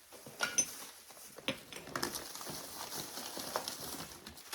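Small objects being handled and set down: a few light clicks and knocks in the first two seconds, then soft, continuous handling noise.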